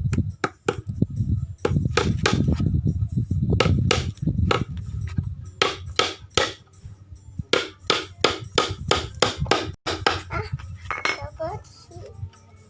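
Hammer tapping in a quick, irregular run of sharp knocks, two to four a second, that stops about ten seconds in.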